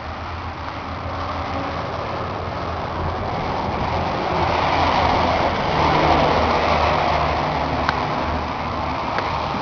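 John Deere 2950 tractor's six-cylinder diesel engine running with a steady low throb, growing louder for a few seconds in the middle before easing back.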